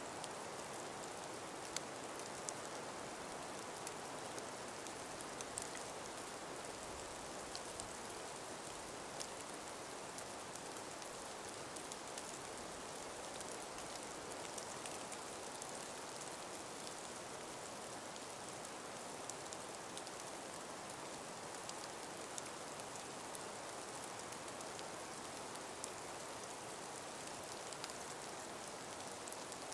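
Calm breeze through ice- and snow-covered forest trees: a soft, steady hiss with scattered faint ticks.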